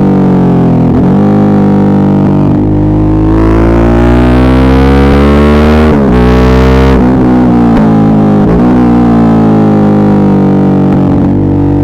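Suzuki V-Strom 650's V-twin engine under way, picked up by an earbud microphone. The revs climb steadily, break sharply about halfway as at a gear change, rise briefly again, then fall away as the throttle is closed.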